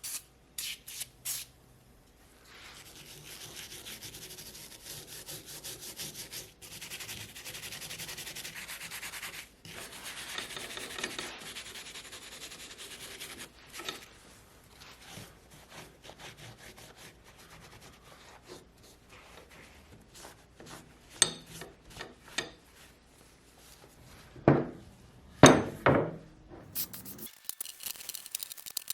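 Hand scrubbing and rubbing to clean a steel axe head, in two long stretches of steady scrubbing, followed by quieter handling and a few sharp knocks near the end.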